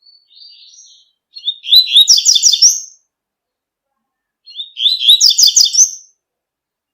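Double-collared seedeater (coleiro) singing its 'tui-tui' song. A soft short phrase comes first, then two loud phrases of rapid high notes about three seconds apart.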